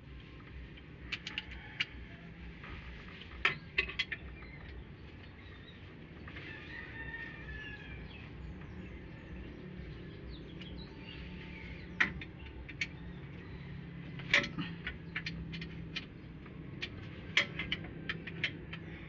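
Sharp metallic clicks and clinks, irregular and in small clusters, as from hand tools on engine parts, over a low steady hum. A bird calls faintly in the background.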